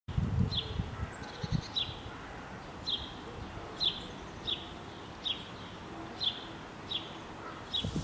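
A bird repeating a short, high call note about once a second, each chirp dipping slightly in pitch, over faint outdoor background, with a few low thumps in the first second and a half.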